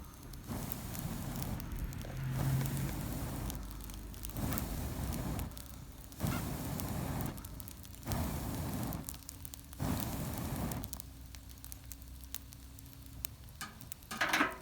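Wood campfire burning, with crackles and pops and the flames swelling in whooshing surges about every two seconds as the fire builds up heat. A short louder noise comes near the end.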